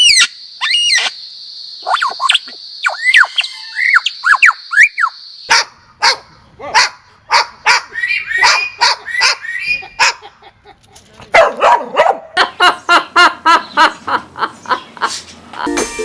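Pet parrot calling: gliding whistled squawks at first, then rapid clicking chatter, a short pause, and a quick run of evenly spaced calls.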